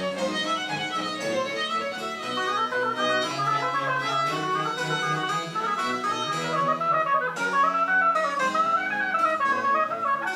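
Small Baroque ensemble of wind and string instruments playing French Baroque music live: quick melodic runs rising and falling over a bass line.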